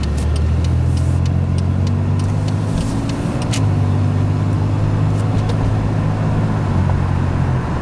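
2003 Pontiac Grand Am GT's 3.4-litre V6 and tyres heard from inside the cabin while driving: a steady low engine drone over road noise, its pitch shifting a little about three seconds in. No grinding comes from the newly replaced front wheel hub.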